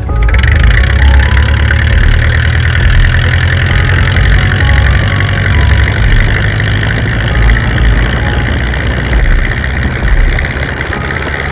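Chevrolet El Camino's small-block V8 running loud and steady through a homemade exhaust, with a deep low rumble and slight rises and falls in level.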